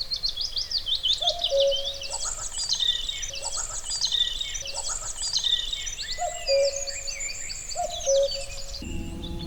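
Common cuckoo calling its two-note 'cuck-oo' repeatedly, the second note lower, over a dense chorus of fast, high songbird song. A steady low hum comes in near the end.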